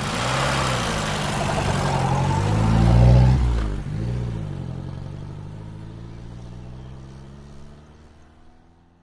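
Car engine revving and pulling away, its pitch rising and falling. It is loudest about three seconds in, then settles to a steady hum that fades out.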